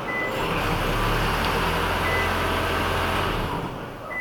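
Toyota Crown Hybrid's engine running steadily under a remote engine start, then shutting off about three and a half seconds in as it is stopped remotely, its hum dying away.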